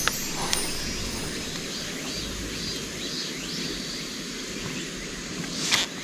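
Steady rush of a river flowing by, with faint repeated chirps over it. A couple of light clicks come right at the start, and a brief sharp clatter comes near the end.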